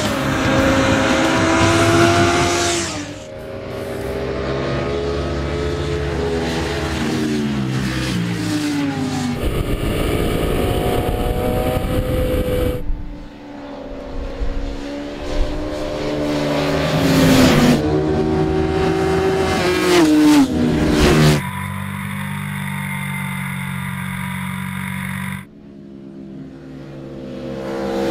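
Sport motorcycle engines being ridden hard in a run of short clips, their pitch climbing under acceleration and dropping at gear changes and on closing the throttle. The clips change abruptly, and one stretch holds a steady engine note.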